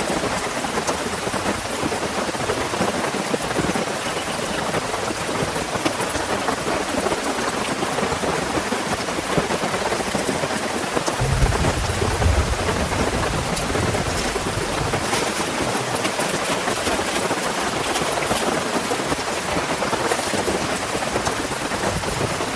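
Heavy rain pouring steadily, with a low rumble of thunder rolling in about halfway through and fading over a few seconds.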